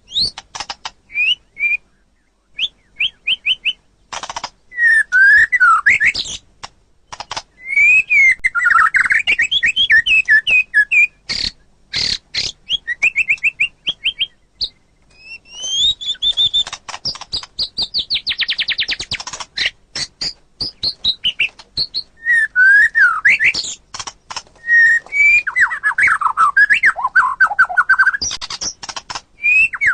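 White-rumped shama singing a long, varied song: loud fluty whistles and sweeping notes, fast trills and sharp clicking notes in quick phrases with short pauses between them.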